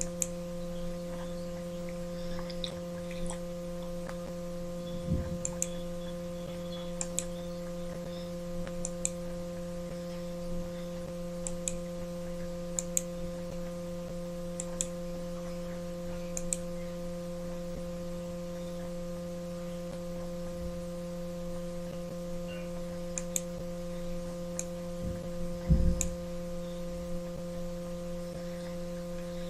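Steady electrical hum of several fixed tones, with scattered sharp clicks every second or two and two low thumps, one about 5 seconds in and a louder one near 26 seconds.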